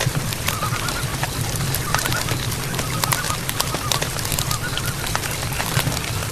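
Night-time forest ambience: a dense patter of small clicks and ticks over a steady low rumble, with short, faint warbling animal calls repeating about once a second through the first few seconds.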